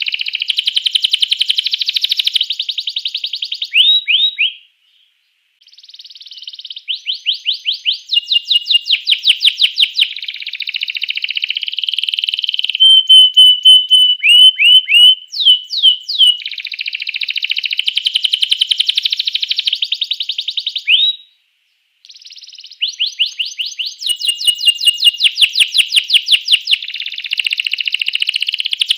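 Domestic canary singing loudly in long rolls of fast repeated trill notes, with a run of quick rising whistled notes about halfway through and two short breaks. This is a full 'gacor' canary song of the kind used to provoke other canaries into singing.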